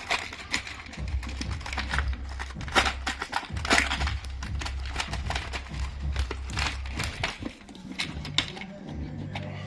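Small metal trim nails rattling and clicking as they are rummaged through and picked out by hand, in quick irregular clicks, with a low hum underneath.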